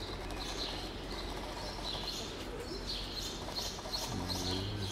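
Birds chirping in short high notes, a quick run of about three a second in the second half. Near the end a low steady buzz sounds for under a second.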